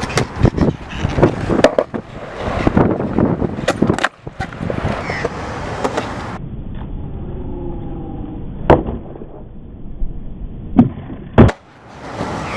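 Skateboard rolling on hard ground with repeated sharp clacks of the board striking the surface. About six seconds in the sound turns duller and quieter, with a few loud single clacks standing out in the later part.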